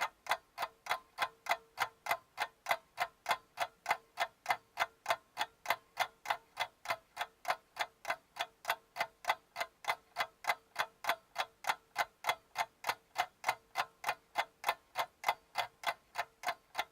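Clock ticking steadily, about three ticks a second, over a faint steady tone.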